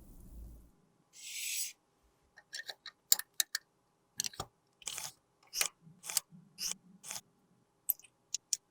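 A brief hiss about a second in, then a quick run of sharp, irregular snipping and scraping strokes, about fifteen of them, as hand tools work on a lipstick during a repair.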